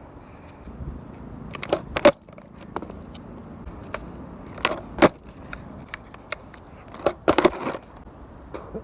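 Skateboard wheels rolling on pavement, with sharp clacks of the board hitting the ground, mostly in pairs a fraction of a second apart (pop and landing of tricks) around two seconds in, around five seconds in, and in a quick cluster near the end.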